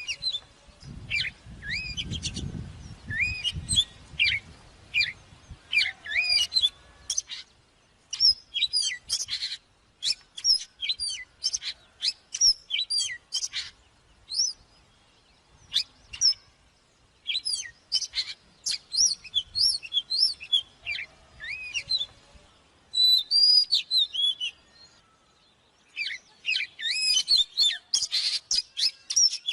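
Oriental magpie-robin singing: quick runs of varied, sweeping whistled notes in phrases broken by short pauses. A faint low rumble sits under the song in the first few seconds.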